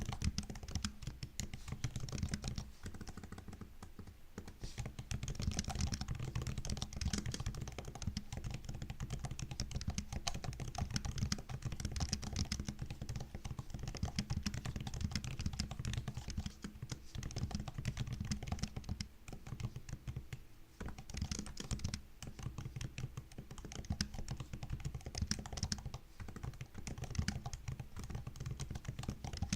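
MacBook laptop keyboard being typed on in quick, continuous runs of key clicks, with a couple of brief pauses.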